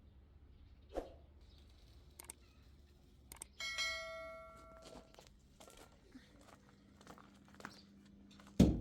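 Scattered knocks and clicks, with a ringing, chime-like tone about three and a half seconds in that fades away over a second or so, and a loud thump near the end.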